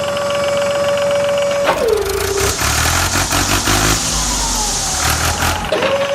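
Small electric motor of a model truck whining at a steady pitch. About two seconds in it slows and drops in pitch, with deep rumbling and clattering, then speeds back up to its steady whine near the end.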